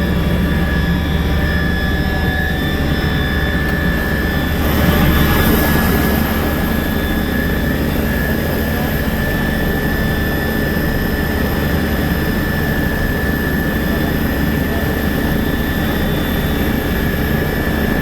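Rescue helicopter's turbine engine and rotor running steadily, with a constant high whine over a low drone; it swells briefly about five seconds in.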